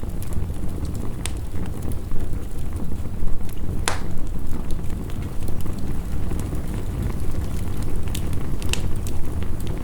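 Wood fire crackling, with scattered sharp pops (the loudest about four seconds in), over a steady low rush of heavy rain.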